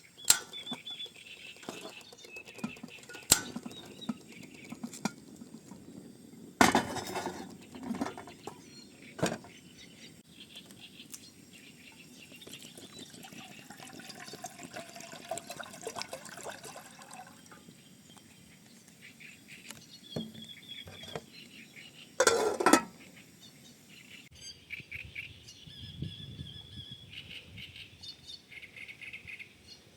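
Birds chirping off and on, with a few sharp knocks and clatters; the loudest are one about 7 seconds in and one a little past 22 seconds.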